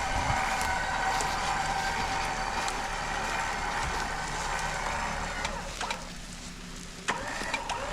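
Electric vehicle winch running with a steady whine as it takes up slack, winding down and stopping about six seconds in. A few sharp clicks follow near the end.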